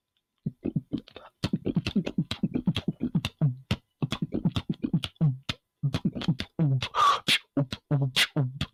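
A person beatboxing: a fast, rhythmic run of mouth-made clicks and snare hits over short hummed bass tones, starting about half a second in.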